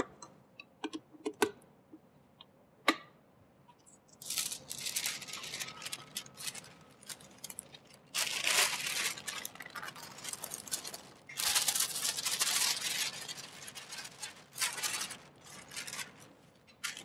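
Dry ingredients being tipped into a stand mixer bowl: a few clicks, then from about four seconds in several irregular stretches of rustling, hissing noise with short gaps between them.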